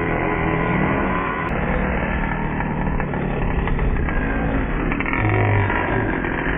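Small two-stroke nitro engine of an RC motorcycle running at high revs. Its note rises and falls as the throttle is worked, with overlapping pitch glides at times.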